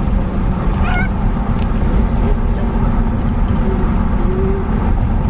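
A cat meowing briefly, about a second in and again near the end, over a steady low rumble.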